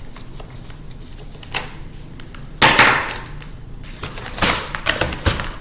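The casing of a 2006 MacBook being pried and pulled apart by hand: sharp clicks and snaps, with a louder scraping clatter about two and a half seconds in lasting about a second.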